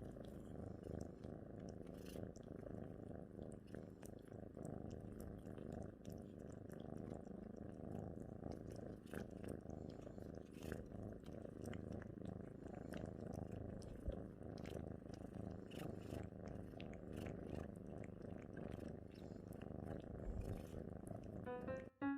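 A cat purring steadily, with faint scattered clicks.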